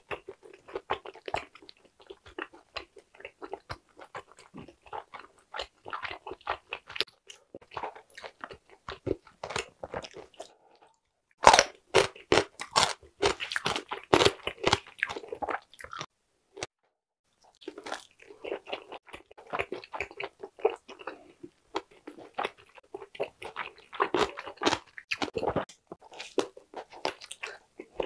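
Close-miked chewing and biting of Korean blood sausage (sundae), a steady run of wet, clicky mouth sounds. About halfway through a louder, sharper stretch of bites comes, then a brief break before the chewing resumes.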